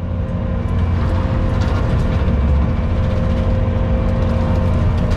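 Skid steer's engine and hydraulic bush hog (rotary brush cutter) running steadily under load, with a continuous low hum and a steady whine above it.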